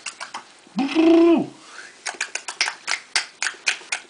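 A baby's short voiced squeal about a second in, rising then falling in pitch, over a run of quick clicks several times a second.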